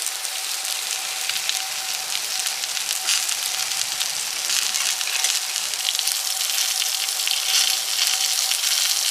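Meat sizzling on a steel griddle plate over the fire, a steady crackling hiss that grows a little louder about halfway through.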